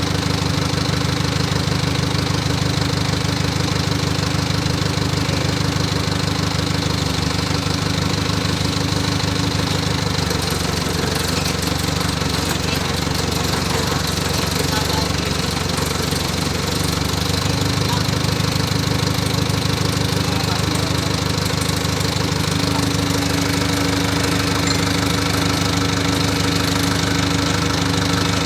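Moshito 25 kVA water-cooled diesel generator's engine running steadily at an even speed.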